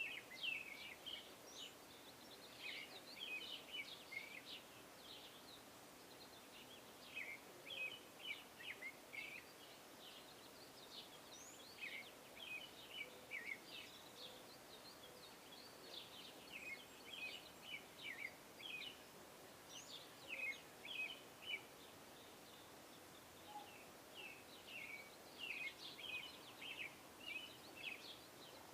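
Small songbirds chirping and singing, faint: clusters of quick, high notes that recur every few seconds.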